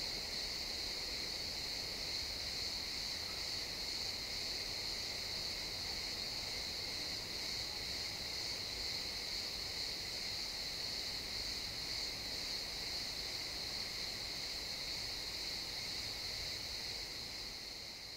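A chorus of crickets chirping in a continuous, steady high-pitched trill that begins to fade out near the end.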